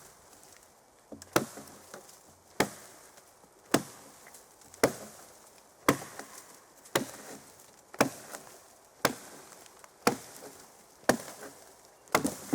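Small hand axe chopping into a bark-stripped log with steady strokes, about one a second, each a sharp woody chop. The freshly sharpened blade is biting in easily.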